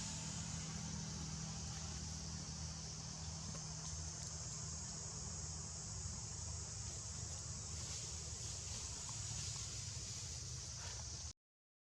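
Steady, high-pitched insect chorus over a low, steady rumble, cutting off abruptly to silence just before the end.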